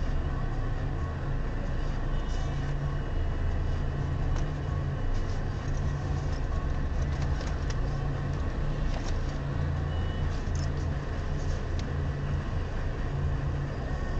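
Car engine idling, heard from inside the cabin as a steady low hum with a few faint ticks over it.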